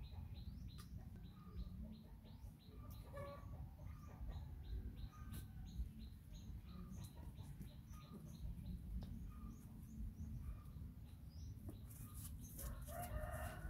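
Small bird chirping over and over in the background, short high chirps about two or three a second, over a low rumble of outdoor noise. Near the end a louder, pitched animal call comes in.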